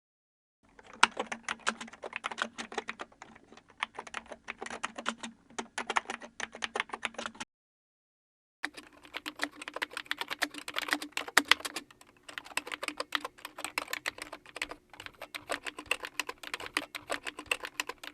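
Typing on a computer keyboard: quick, uneven runs of key clicks that stop for about a second some seven seconds in, then resume.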